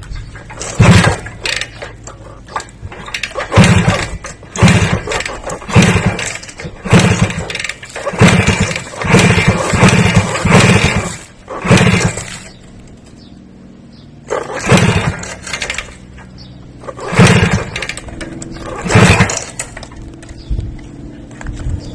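A motor engine being revved in repeated short blips, about one a second, then settling to a steady idle for a couple of seconds before three more revs.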